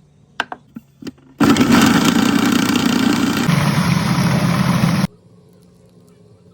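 A few clicks, then the motor of an electric kitchen appliance running loudly for about four seconds. Its hum drops in pitch about halfway through, as the load changes, and it stops abruptly.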